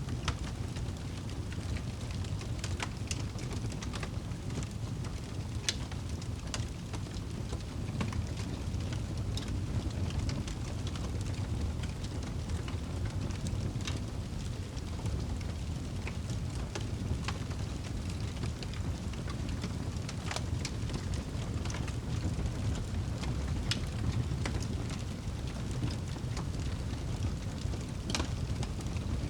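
Wood fire burning in a fireplace: a steady low rumble of the flames with irregular sharp crackles and pops from the burning wood, a few louder pops standing out.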